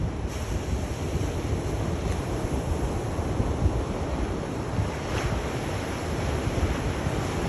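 Ocean surf: waves washing in a continuous steady rush, with a low, gusty rumble of wind on the microphone.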